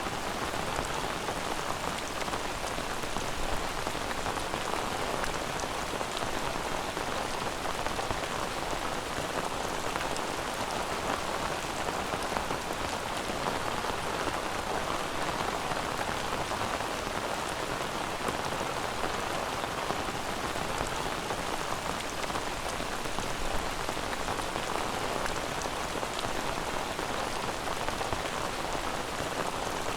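Steady rain falling on a surface: an even patter that holds without breaks or changes.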